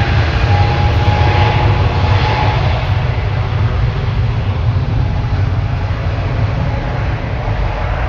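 Boeing 777-300ER's twin GE90-115B turbofan engines at takeoff thrust: a heavy, steady low rumble with a faint whining tone that fades out about two to three seconds in, the whole sound slowly easing.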